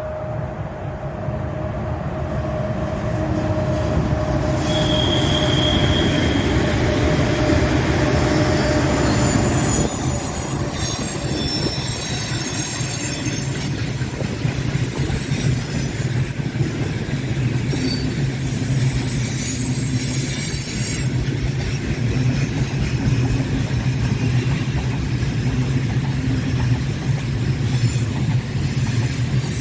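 Freight train behind a 4ES5K Ermak electric locomotive passing on a curve: a steady electric hum fades over the first ten seconds, with a brief high wheel squeal about five seconds in. After that the wagons roll by with a steady rumble and clatter.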